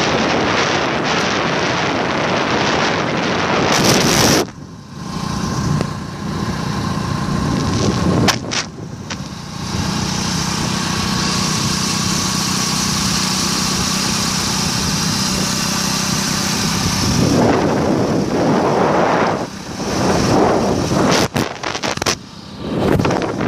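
Wind buffeting the microphone during a ride, over a steadily running vehicle engine that is clearest through the middle. The noise drops out abruptly a few times.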